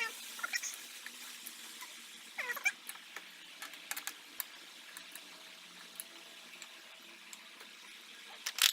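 A pet animal gives two short falling calls, one at the start and one about two and a half seconds in, over scattered light clicks and a faint steady hum; a louder click comes near the end.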